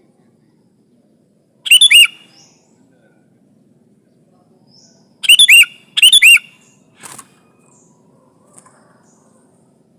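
Sooty-headed bulbul calling loudly in short phrases of gliding notes: one phrase about two seconds in, two more in quick succession past the middle, then a fainter call just after.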